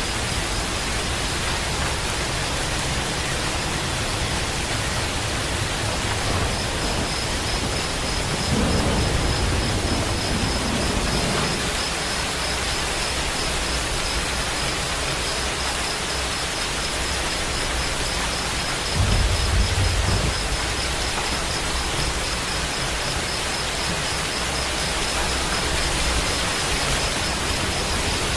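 Steady rain hissing, with low rumbles of distant thunder a few seconds long about a third of the way in and again, shorter and louder, about two-thirds through.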